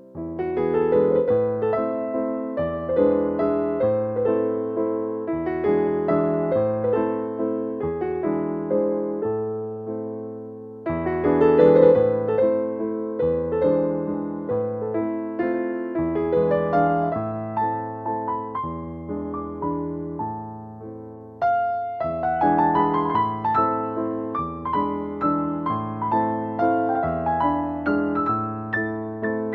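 Background music: electric piano playing a gentle melody over slow, steady bass notes, with phrases restarting about 11 and 21 seconds in.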